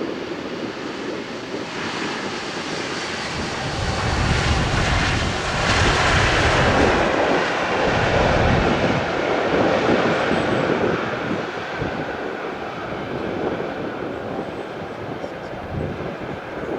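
Jet engine noise of a Boeing 787-9 Dreamliner passing on its landing, swelling over several seconds to a peak and then easing off.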